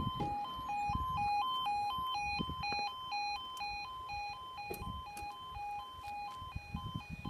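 UK level crossing warning alarm sounding its two-tone 'yodel', alternating steadily between a lower and a higher pitch about twice a second, the warning that a train is approaching and the barriers are coming down.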